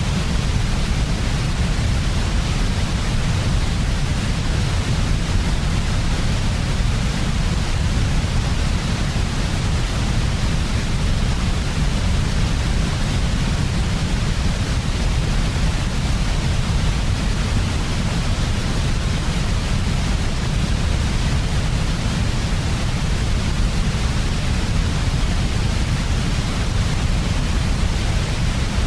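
Steady synthetic white noise: an even, unbroken hiss over a strong deep rumble, never changing.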